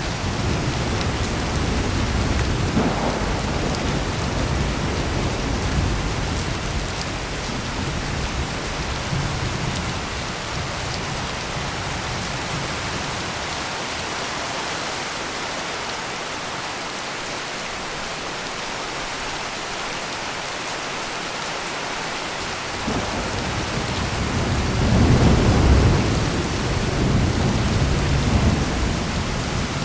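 Heavy rain pouring steadily, with rolling thunder: a low rumble in the opening seconds that fades, then a stronger peal building about two-thirds of the way in, loudest a little after that, and rolling off near the end.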